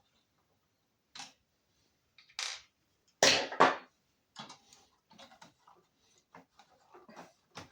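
Irregular small clicks and taps of hand tools and small plastic and metal parts as a speedometer and odometer assembly is handled and taken apart, with a louder clatter about three seconds in.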